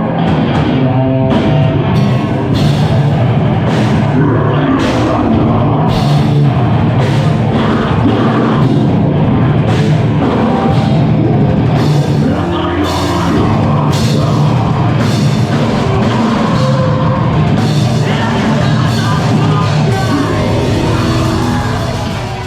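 Live band playing loud heavy rock, with a pounding drum kit driving the beat under amplified instruments.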